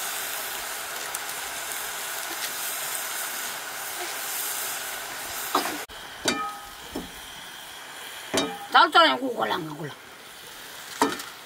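Green vegetables sizzling in a wok, with a steady hiss and a few sharp scrapes and taps of a wooden spatula. A child's voice calls out briefly about nine seconds in.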